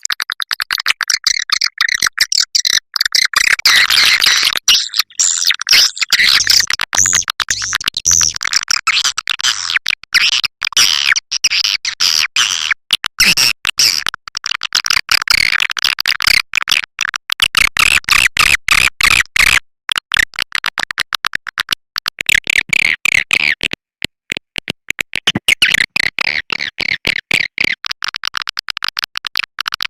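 Swiftlet call-lure recording: a dense, rapid chatter of swiftlet twitters and clicks, high-pitched, with a couple of brief breaks.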